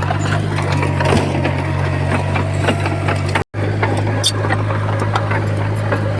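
Komatsu bulldozer's diesel engine running with a steady low drone, with scattered clanks and clicks. The sound cuts out for an instant about halfway through.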